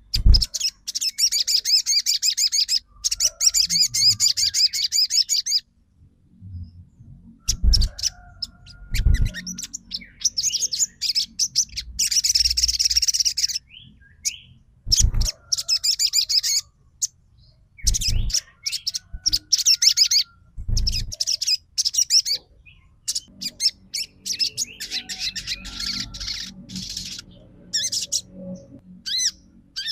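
Crimson sunbird (kolibri sogon) singing rapid, high-pitched trilling phrases that each last a few seconds, with short pauses between them. Several brief low thumps come in between the phrases.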